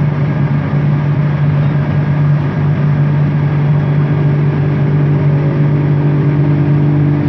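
Bombardier Innovia ART 200 train running, heard from inside, with a strong steady hum from its linear induction motors over rolling and running noise. About halfway through, a set of higher steady tones joins the hum.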